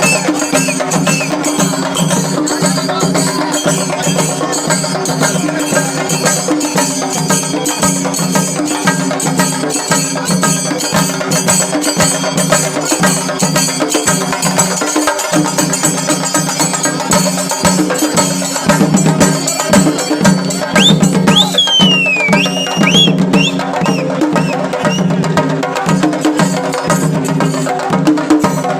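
Loud, fast rhythmic drumming with music, the dense sharp strikes of a festival procession band. About two-thirds of the way in, a few high whistle-like tones glide up and down over it.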